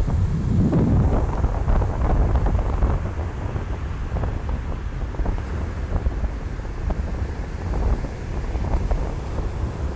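Ocean surf breaking and washing on a beach, with heavy wind buffeting the microphone as a low rumble. The rumble swells in the first couple of seconds and eases off later.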